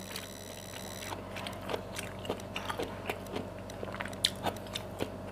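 A person chewing a mouthful of siomay with bitter gourd: small, irregular wet clicks and soft crunches from the mouth.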